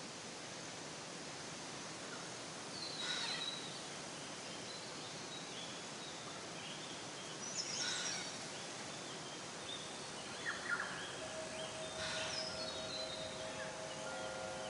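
Steady outdoor hiss of natural ambience with short bird calls breaking in several times. Wind chimes begin ringing about three quarters of the way through.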